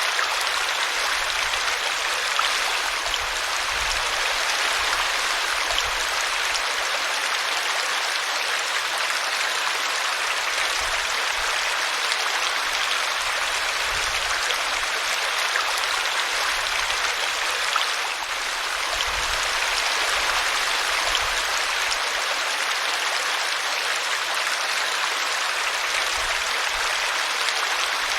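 A small brook spilling over a tree root: a steady rush and splash of running water.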